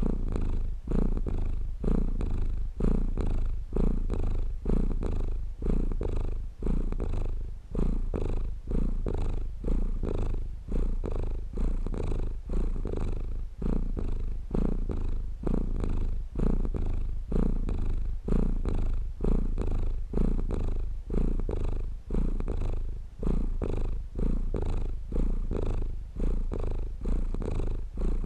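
Domestic cat purring steadily and close up, in regular low pulses that swell and ease with each breath.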